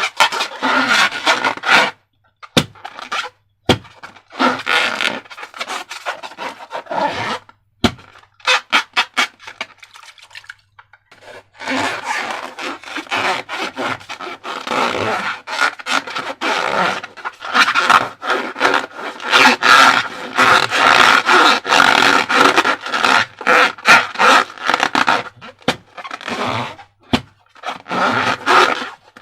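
Slime being squeezed and squished by hand, giving wet squelching and crackling noises in irregular bursts, with a few short pauses and sharp clicks, busiest in the second half.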